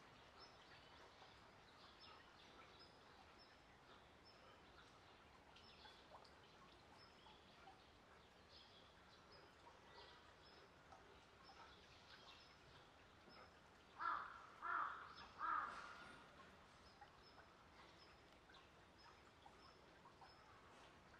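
Quiet outdoor ambience with a small bird's short high chirp repeating throughout. About two-thirds of the way through, a bird caws three times, loud and about half a second apart.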